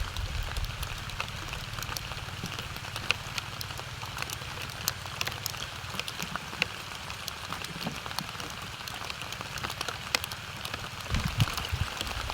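Rain falling steadily, a constant hiss with many individual drops tapping sharply close by.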